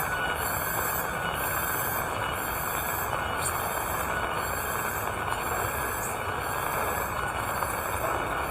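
Steady rain falling, with a high, pulsing chirp repeating about once a second above it.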